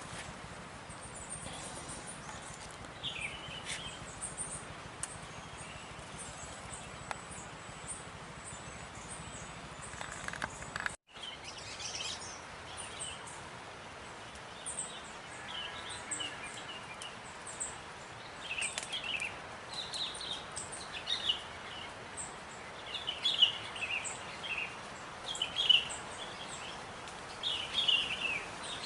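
Wild birds chirping in short, high calls over a steady outdoor hiss; the chirps come more often in the second half, and the sound cuts out for an instant about eleven seconds in.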